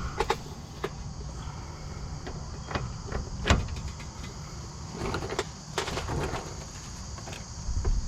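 Scattered metallic clicks and knocks of hand tools and parts while a drive shaft is bolted in, the loudest about three and a half seconds in and a cluster of them between five and six and a half seconds, over a steady low rumble.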